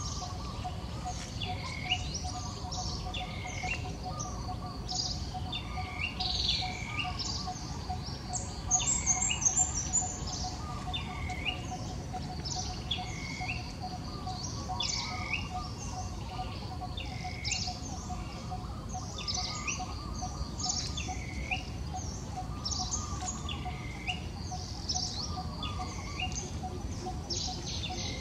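A bird calling over and over, one note about every one and a half seconds, each note dipping in pitch and rising again. A second bird gives a brief high trill about nine seconds in, over steady outdoor background noise.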